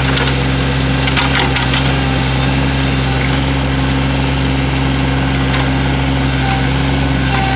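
Excavator engine running steadily, with a few brief cracks of wood snapping as brush and thorn trees are pushed over.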